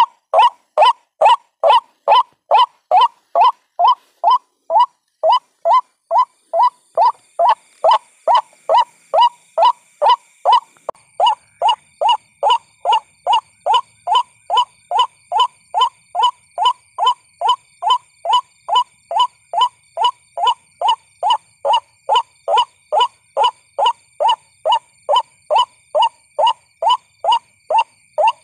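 White-breasted waterhen call played as a trapping lure: one short, downward-sliding 'kook' note repeated evenly at about two a second.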